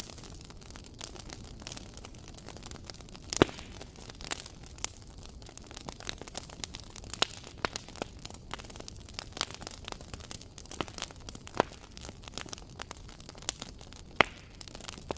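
Wood fire crackling: a steady low hiss with irregular sharp pops and snaps, the loudest about three and a half seconds in.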